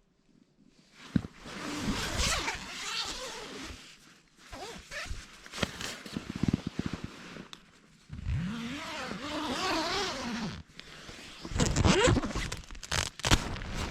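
A zipper being pulled in four separate runs, each a few seconds long, with a scratchy sound that slides in pitch.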